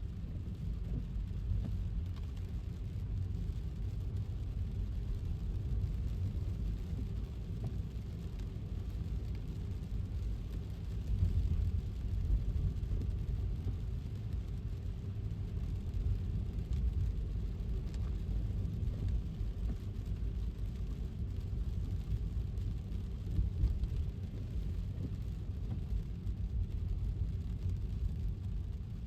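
Steady road noise from a car driving in the rain: a low rumble of tyres on wet pavement with a faint hiss of rain over it.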